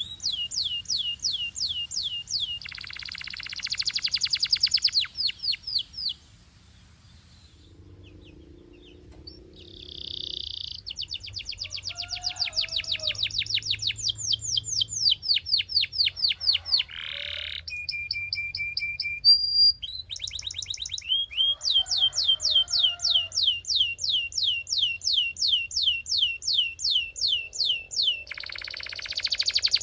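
Belgian canary singing: long runs of fast, evenly repeated high notes, broken by buzzy rolled phrases and a lull of a few seconds about a quarter of the way in.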